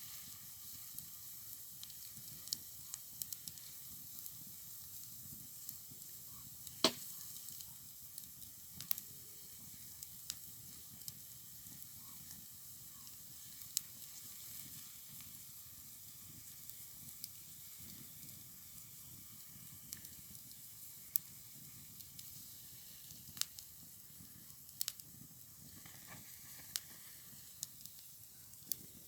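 An object heating in a campfire hisses steadily, with sharp crackles popping out here and there; the loudest crackle comes about seven seconds in.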